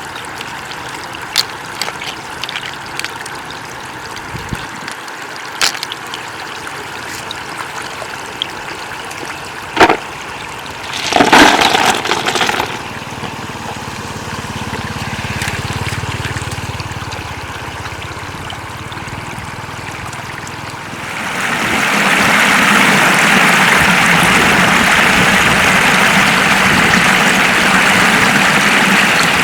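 Shallow floodwater trickling and running, with scattered small clicks and a short splashy burst. About two-thirds of the way in, a louder steady hiss sets in.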